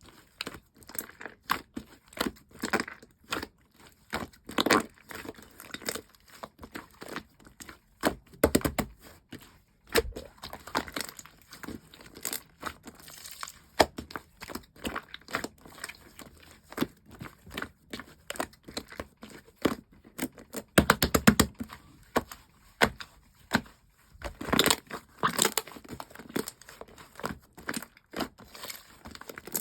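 Slime being squished, pressed and stretched by hand, making irregular sticky clicks and crackling pops, with a quick run of rapid pops about two-thirds of the way in.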